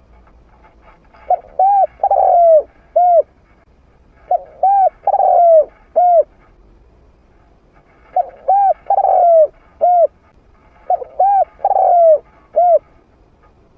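Spotted dove singing its territorial cooing song, used as a decoy call for wild doves: four phrases, each of two short coos, a longer falling coo and a final short coo, with pauses between them.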